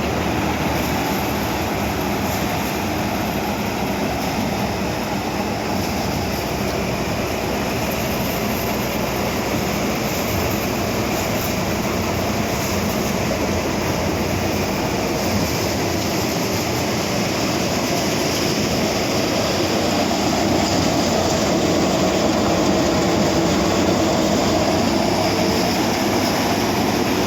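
New Holland 6010 tractor's diesel engine running steadily, getting a little louder about twenty seconds in.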